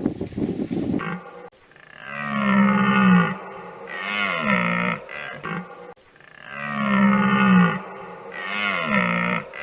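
A stag roaring: a long, low call that falls in pitch at its end, then a shorter call, and the pair comes again. In the first second, a rustling noise cuts off.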